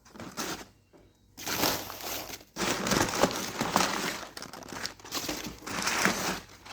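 Packaging crinkling and rustling in bursts as a new mini bike jack shaft assembly is unwrapped by hand.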